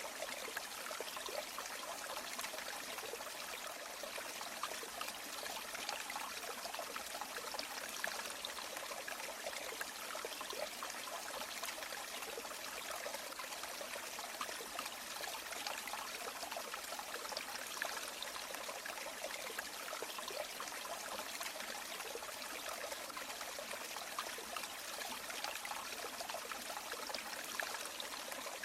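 River water flowing and trickling steadily, an even rush with fine bubbling splashes.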